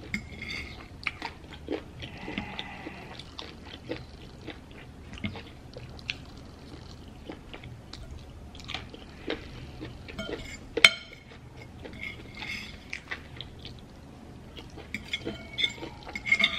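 Close-up chewing and mouth sounds of someone eating noodles, with scattered light clicks of a fork on the plate and one sharper clink about two-thirds of the way through.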